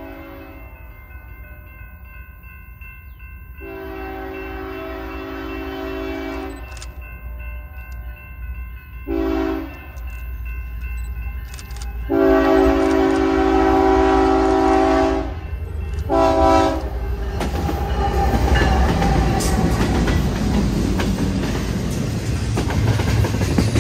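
Locomotive air horn sounding a chord in a series of long and short blasts, then the rising rumble and wheel clatter of the train coming past on the track.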